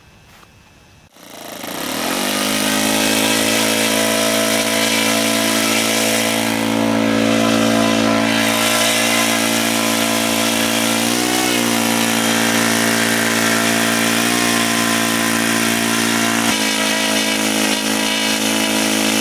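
ASP .61 two-stroke glow engine of an RC Cessna 182 model running with its three-blade propeller. It comes in about a second in, rising quickly in pitch, then holds at a steady high speed with two brief wavers in pitch.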